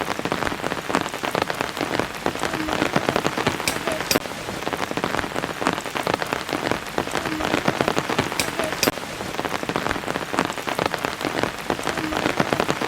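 Rain falling steadily: a dense, continuous patter of drops striking a surface.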